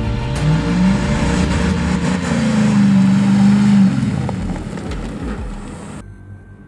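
Mitsubishi Pajero off-road trial vehicle's engine revving, rising in pitch over the first couple of seconds and holding high revs as it drives across rough dirt. It eases off about four seconds in and cuts off abruptly near the end.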